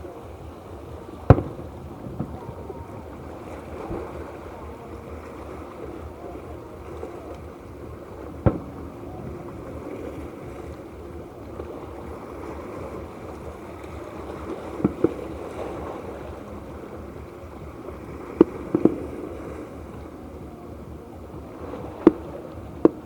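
Fireworks bursting: about nine sharp bangs at irregular intervals, several in quick pairs, the loudest about a second in, over a steady rushing background.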